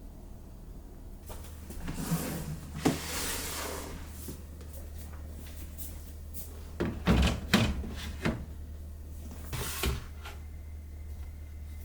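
Things being handled in a kitchen: a stretch of rustling, then a few sharp knocks and clunks, like containers being set down or a fridge drawer being moved. A steady low hum runs underneath.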